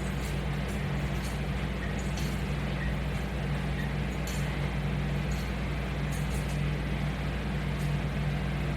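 A steady low hum under an even hiss, with a few faint light clicks here and there.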